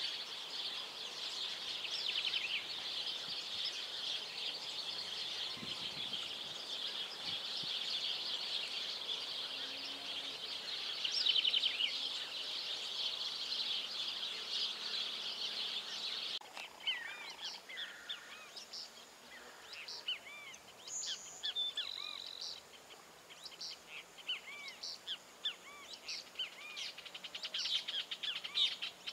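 Wild birds chirping: a dense, continuous high chatter of many overlapping chirps. About halfway through it changes suddenly to scattered separate chirps and short calls.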